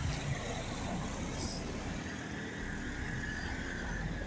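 Steady street traffic noise: passing cars.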